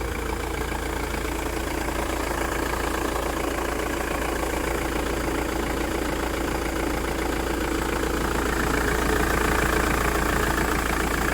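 Ford Transit Mk6 van engine idling steadily and staying running rather than stalling. The stall-at-idle fault appears cured by the repair.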